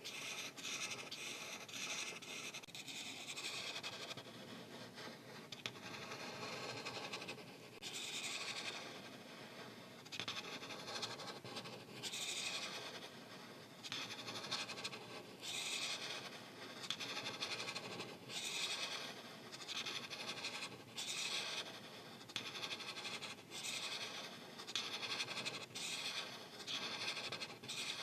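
Art marker tips scratching back and forth across paper in repeated strokes, coming in uneven bursts of about a second each as an area is filled in with color.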